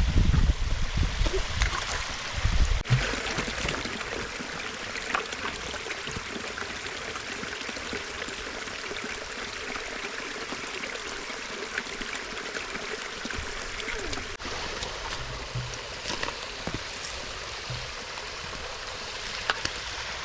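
Creek running high, rushing over a small waterfall: a steady wash of water, with a few brief sharp sounds through it.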